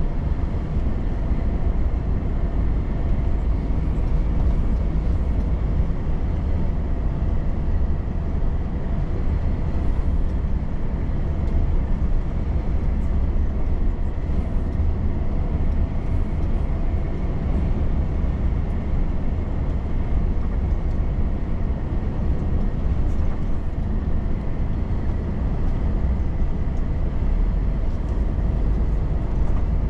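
Volvo FH truck driving at a steady speed: a constant low engine drone mixed with road rumble.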